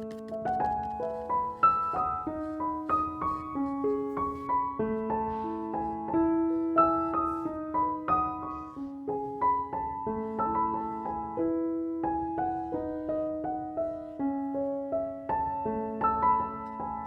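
Background piano music: a gentle melody of held notes, each ringing into the next.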